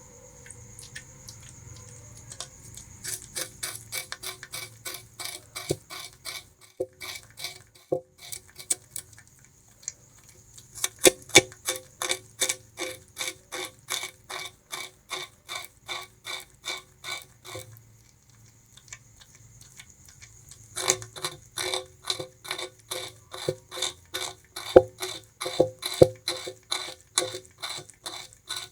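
Bamboo rat gnawing and chewing sugarcane, a rhythmic crunching of about three bites a second in three bouts with short pauses between.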